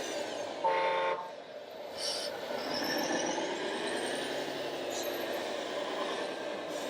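A short horn toot, about half a second long and less than a second in, over the steady whine of radio-controlled model trucks and construction machines running, their motor pitch gliding up and down.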